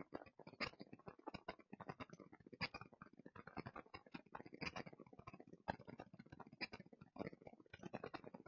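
Faint, irregular crackling and rustling: many small clicks in quick, uneven succession.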